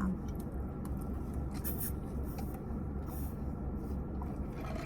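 Steady low rumble inside a parked car, with a few faint rustles and clicks.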